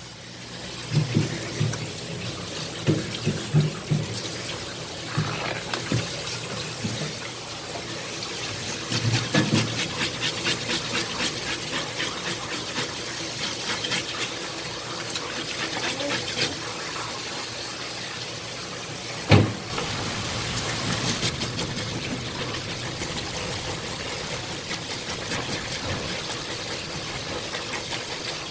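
Water running from a tap, with knocks and many quick ticks over it and one sharp thump about two-thirds of the way through.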